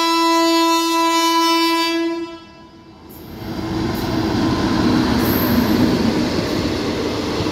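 Indian Railways electric locomotive's horn sounding one long, steady blast that cuts off after about two seconds. About a second later the locomotive and its coaches rumble and clatter past along the track.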